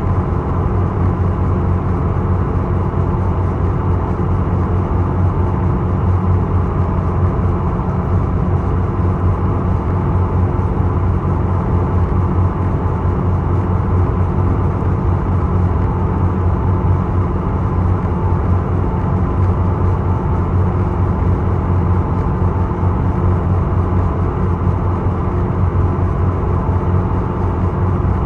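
The Isokaze passenger boat's engines running at a steady cruising drone, with a deep hum and a few steady higher tones, heard on board in rough seas.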